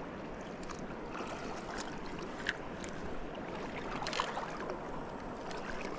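Steady rush of flowing river water, with a couple of faint clicks.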